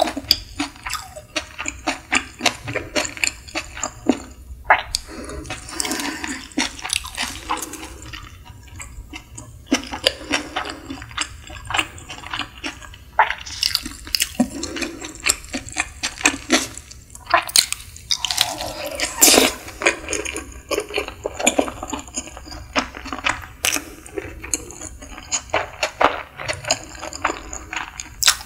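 Close-miked eating sounds of a person chewing a nori-wrapped sushi piece: wet, irregular smacking and clicking chews, many short sharp sounds.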